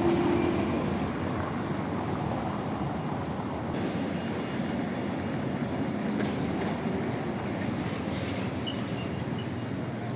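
Lisbon city tram running on street rails, a steady rumble, with a faint wheel tone that fades in the first second.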